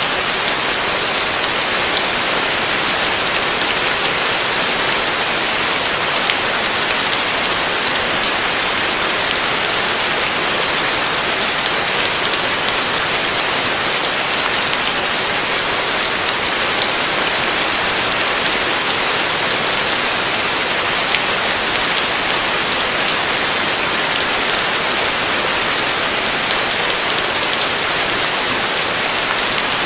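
Heavy rain falling steadily on a roof: a dense, even hiss with scattered sharper drop hits and no change in strength.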